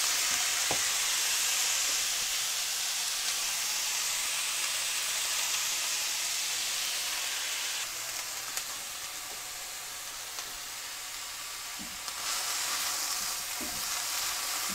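Mixed vegetables sizzling in hot olive oil in a cast iron skillet, a steady hiss that eases a little about halfway through. Near the end a spatula stirs them, with a few light scrapes against the pan, and the sizzle picks up again.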